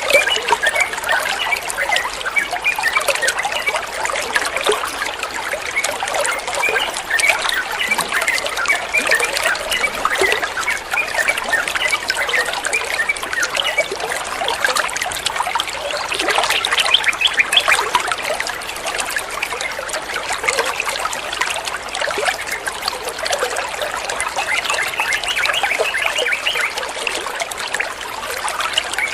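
Water trickling and babbling steadily, a dense run of small splashes and bubbling.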